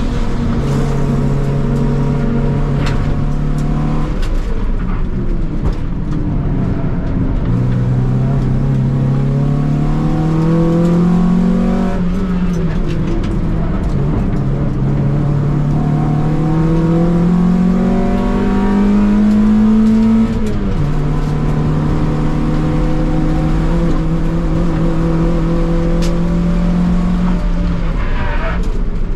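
A Honda Civic's D-series four-cylinder engine heard from inside the cabin on a hard track lap. The engine note holds steady, falls away about four seconds in, then climbs in two long rising pulls under full throttle, each cut off by a sharp drop in pitch, before holding a steady note through the last part.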